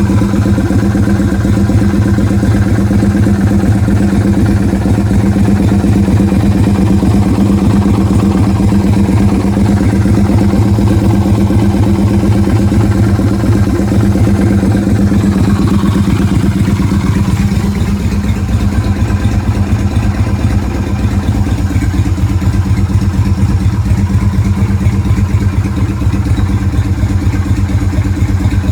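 Yamaha Virago 250's air-cooled V-twin engine idling steadily. About halfway through, the idle drops a little lower and runs a little duller.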